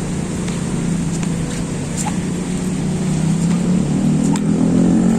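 Motor vehicle engine running steadily, then growing louder and rising in pitch near the end as it speeds up.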